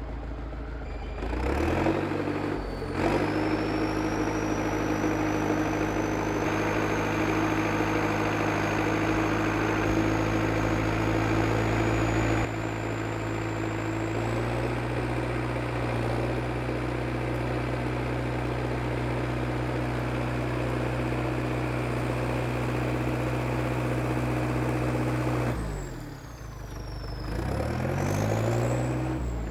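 IH TD8E crawler bulldozer's diesel engine running, revving up about two seconds in and holding steady with a faint high whine above it. Near the end the revs drop and then climb again.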